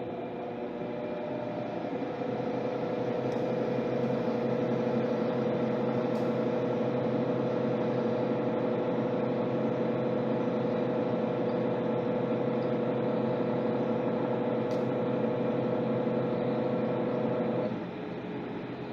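Electrolux LTC10 washing machine running mid-cycle on its jeans program: a steady motor hum with a whine. It grows louder about two seconds in and cuts off sharply near the end, leaving a quieter hum.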